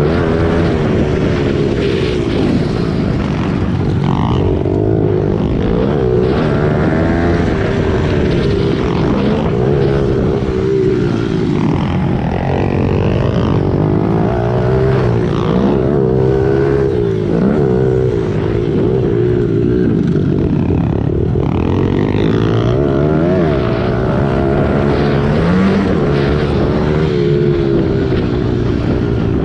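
Small single-cylinder four-stroke pit bike engines revving up and down as they ride, their pitch rising and falling every second or two with overlapping engine notes throughout.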